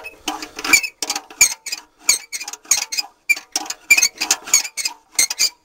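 Quick, irregular clicking and chirping electronic sounds, about three or four a second, the percussive opening of an electronic music track before its bass comes in.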